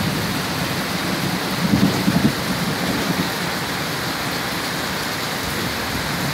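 Steady rain falling, with a short low rumble of thunder about two seconds in.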